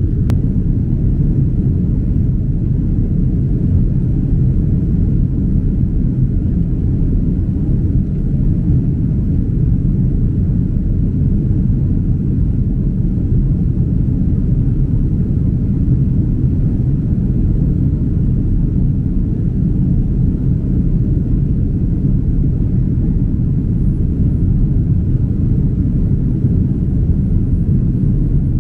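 Steady, even low rumble of engine and airflow noise inside the cabin of a Boeing 767-300 airliner in flight.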